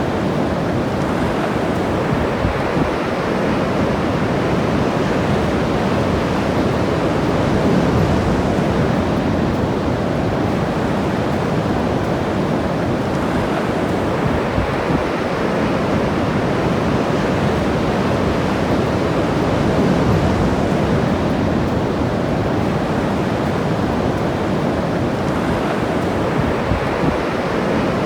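Ocean surf washing onto the beach in a steady rushing wash that swells gently a couple of times as waves break.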